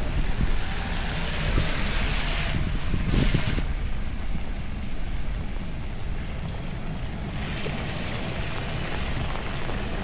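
Typhoon wind buffeting the microphone over a steady hiss of heavy rain. The gusts are strongest in the first few seconds and ease to a steadier rush after about four seconds.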